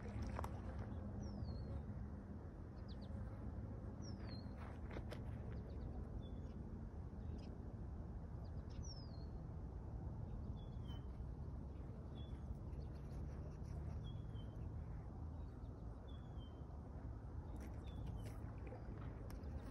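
Birds calling over a steady low outdoor rumble. Three short downward-sweeping chirps come in the first half, then a run of shorter chirps every second or two, with a few faint clicks.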